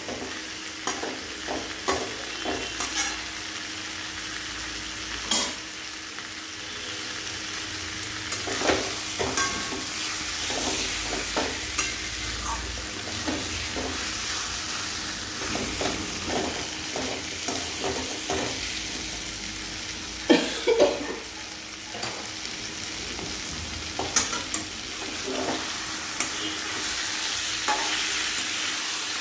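Chicken pieces in masala sizzling in a kadai while a spatula stirs and turns them, scraping and knocking against the pan; a steady hiss broken by frequent short scrapes, with a couple of louder knocks about twenty seconds in. This is the bhuna stage, the chicken being dry-fried in its masala before the pan is covered.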